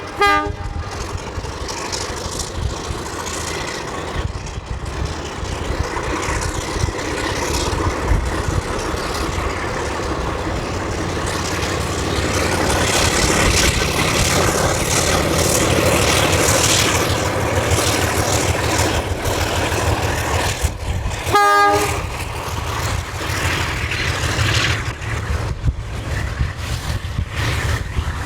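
A train running past with a loud, continuous rumble and rush that swells in the middle. A locomotive gives a short horn blast about 21 seconds in, and another ends just as it begins.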